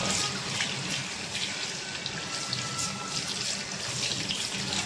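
Potato chunks sizzling in hot oil in a wok: a steady hiss with many small crackles and pops.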